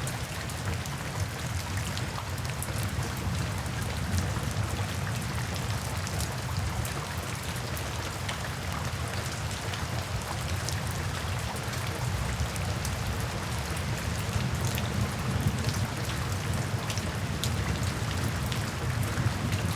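Steady rain falling, a continuous hiss with the ticks of individual drops striking a surface and a low rumble underneath.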